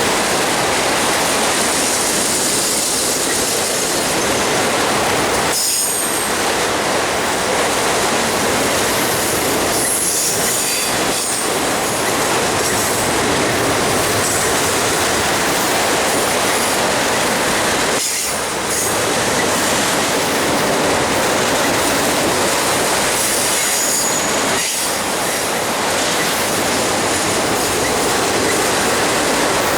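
Railroad cars rolling past close by: a loud, steady rush of steel wheels on rail, with faint high wheel squeals and a few brief dips where gaps between cars go by.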